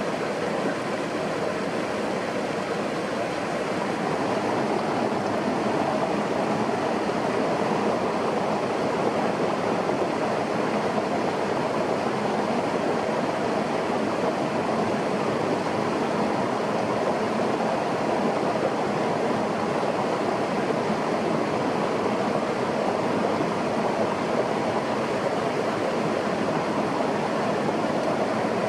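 Steady rushing water noise, even and unbroken, growing slightly louder a few seconds in.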